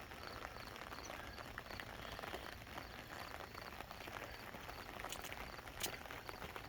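Light rain pattering, with footsteps of a person walking. A faint high chirp repeats about two or three times a second throughout.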